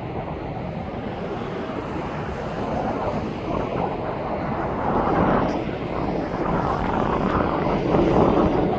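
Aircraft engine noise, a steady rush that grows gradually louder as a plane approaches.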